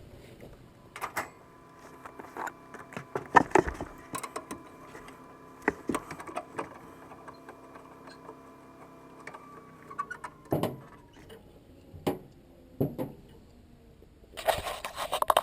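Scattered clicks and knocks of parts being handled inside a gas furnace, over a steady motor hum that dips in pitch and fades out about ten seconds in. A brief rustle comes near the end.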